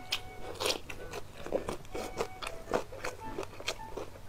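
Close-miked chewing of a mouthful of pizza: irregular wet, crunchy mouth clicks, about two a second.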